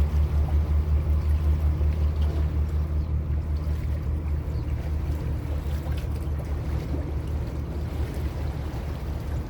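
Lake Como passenger ferry's engine running, heard on board as a low, pulsing throb that eases a little after a few seconds.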